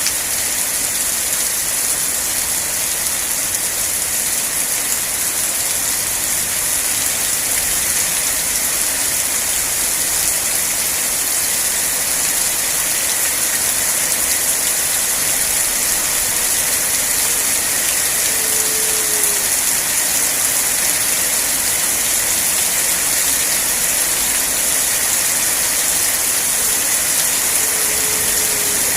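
Steady, heavy rain falling in an even hiss. Two brief faint falling tones sound about two-thirds of the way through and again near the end.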